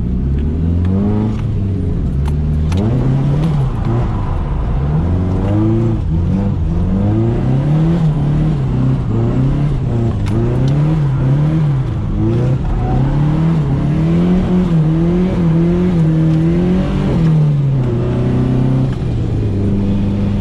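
Nissan 240SX S13 engine revved up and down over and over, about once a second, as the car is drifted on a wet street, then settling to a steady low note near the end.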